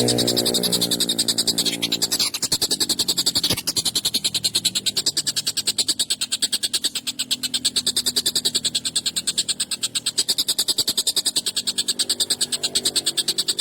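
Collared kingfisher (tengkek buto) giving a long, harsh chattering call: a fast, even run of rasping notes, with a lower, more tonal note at the start and again near the end.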